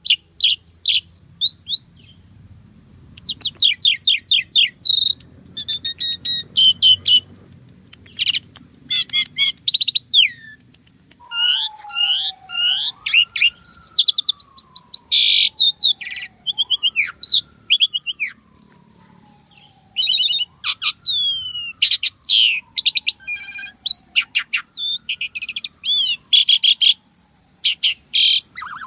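Asian pied starling (jalak suren) singing a fast, varied run of chirps, clicks and high whistles. From about eleven seconds in, a lower whistle rises and then slowly slides down, four times, roughly every four seconds, under the chatter.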